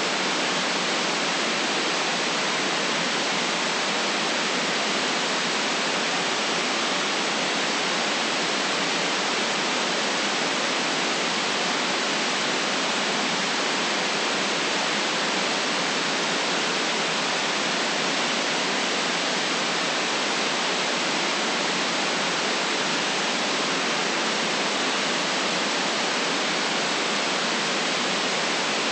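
Steady white noise: an even, unchanging hiss with no deep rumble in it.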